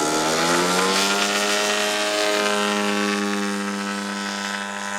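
The two-stroke Zenoah 38 petrol engines of a large-scale model Avro Lancaster running in flight. The engine note rises in pitch over the first second, then holds steady.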